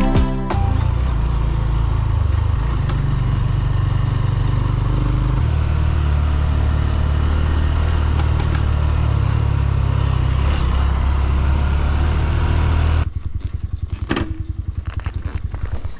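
Motorcycle engine running steadily under way. About 13 seconds in it drops to a quieter, evenly pulsing low beat, as if slowing or idling.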